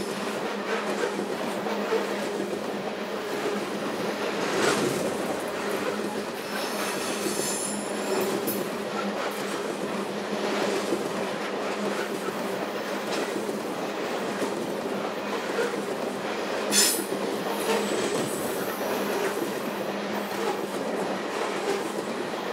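Loaded coal train cars rolling steadily along the track: a continuous rumble of wheels on rail, with a high wheel squeal around a third of the way in and sharp knocks about 5 s in and again near 17 s.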